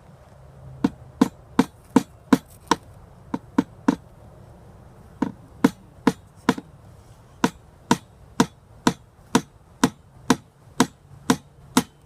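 Hammer tapping in frame spacers on a wooden beehive box: runs of sharp strikes about two a second, with short pauses between runs.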